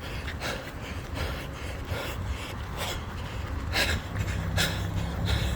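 A runner breathing hard, short panting breaths coming about every half second, over a low steady rumble.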